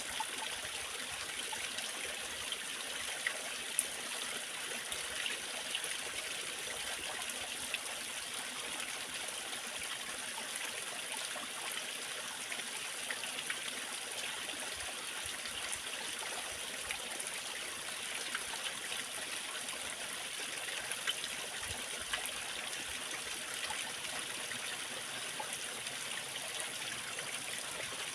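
Waterfall water falling and splashing in a steady rush, with small splashes flickering through it.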